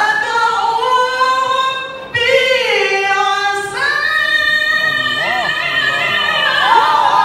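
A man's voice in melodic Qur'an recitation, drawing out long, high, ornamented notes with slow pitch glides. The line breaks briefly about two seconds in and again near four seconds.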